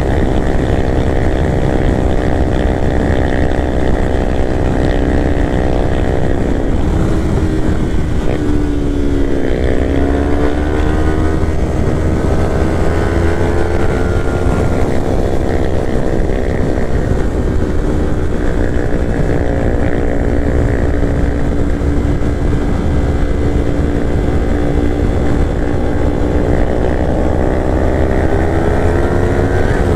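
Kawasaki Ninja 400 parallel-twin engine running under way. Its pitch drops about eight or nine seconds in as the bike slows, then climbs steadily again as it accelerates, over a steady low wind rumble on the microphone.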